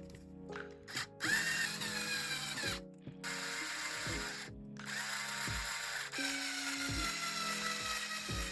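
A small electric motor whining in three runs, each starting with a quick rise and then sagging slowly in pitch as if under load, the last run lasting several seconds. Background music with a steady beat plays throughout.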